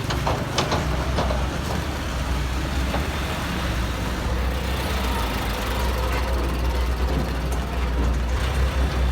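A large engine runs steadily with a deep low hum, and a few short knocks come in the first second or two.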